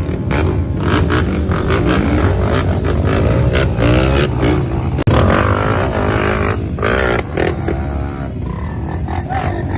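A motor vehicle running, with a steady low rumble and shifting engine pitch, and clattering and scraping over it.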